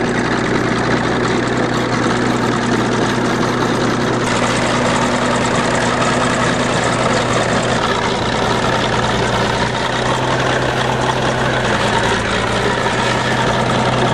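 A vehicle engine running steadily at an even speed, without revving.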